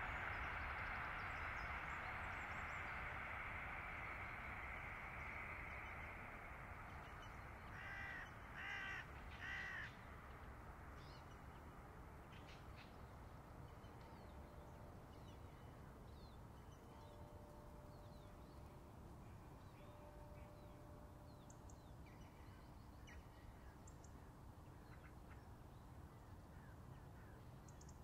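Autumn park ambience: a steady rushing noise fades away over the first several seconds. Then a bird calls three times, about a second apart, followed by faint scattered chirps of small birds.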